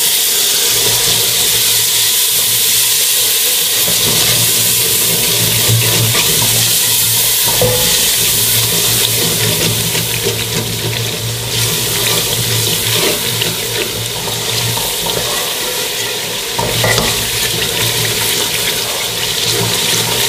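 Onion-tomato masala frying in ghee in a metal pot bursts into a sizzle as a splash of water is poured in, then keeps up a steady hissing sizzle while a spatula stirs it.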